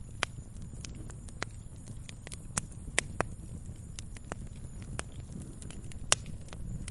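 Wood fire crackling, with irregular sharp pops and snaps over a steady low rumble of the burning flames; the loudest pops come about 3 seconds in and again near 6 seconds.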